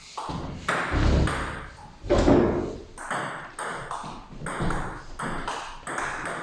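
Table tennis rally: the celluloid-type plastic ball pinging off rubber-faced bats and bouncing on the table, a few sharp hits a second at an uneven rhythm, with two heavier thuds about one and two seconds in.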